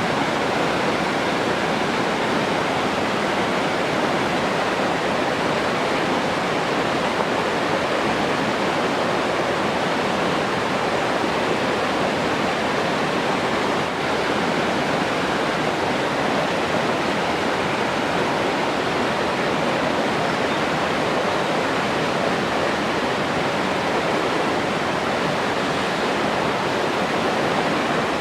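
Steady rushing water, an even, unbroken wash of sound without splashes or drips.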